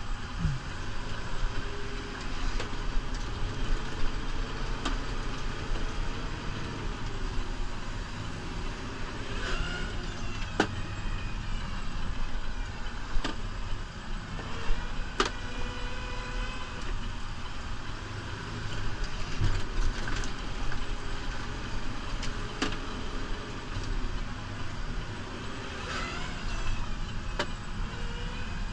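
New Holland Powerstar 75 tractor's diesel engine running steadily while plowing snow. Its note rises and falls a few times, and there are several sharp knocks and clunks.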